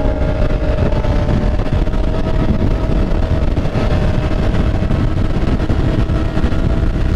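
Motorcycle under way at a steady speed: an even engine note over a heavy low rumble of wind and road noise.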